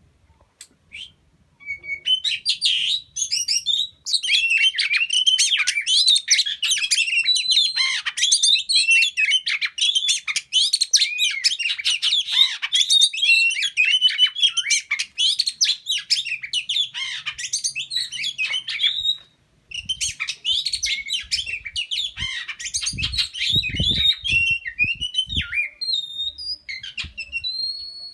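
Oriental magpie-robin (kacer) singing a long, fast, varied run of whistles and chirps, with a short pause about two-thirds through. A few low thumps follow soon after the pause.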